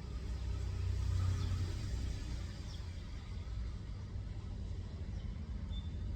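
Low rumble that swells about a second in and then eases off, with a few faint, short, high bird chirps.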